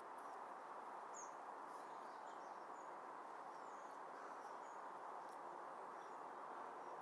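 Quiet outdoor ambience: a steady low hiss, with a scattering of faint, short bird chirps in the distance.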